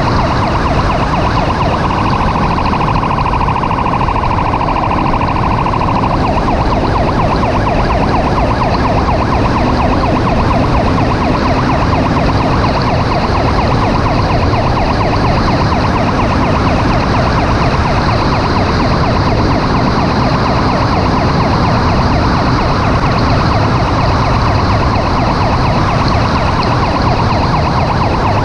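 Emergency vehicle siren sounding over loud, steady road noise from a vehicle on the move, with a steady tone a couple of seconds in that lasts about four seconds.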